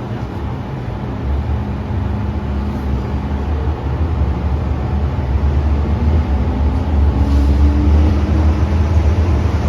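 MTR M-train electric multiple unit running through the tunnel, heard from inside the car: a heavy low rumble that grows louder, with a motor whine rising in pitch about two-thirds of the way through as the train picks up speed.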